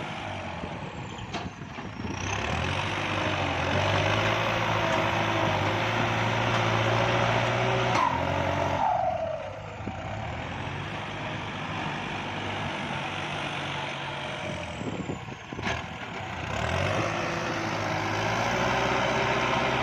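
Kubota diesel farm tractor engine running hard under load while working a paddy-field bund. The engine note sags briefly twice, about eight and sixteen seconds in. It is a strain the operator puts down to the tractor needing added ballast weights.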